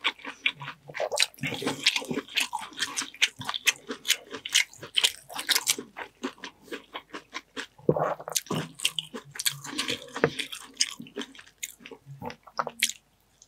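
Close-miked wet chewing, biting and lip-smacking on buttered seafood, a dense run of sharp clicks and smacks with a louder cluster about eight seconds in. Shells clicking as a mussel is pulled from its shell by hand.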